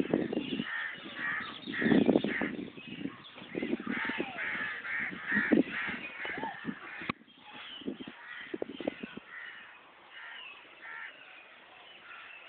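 A crowd of birds calling over one another in short repeated calls. A sharp click comes about seven seconds in, after which the calls are quieter.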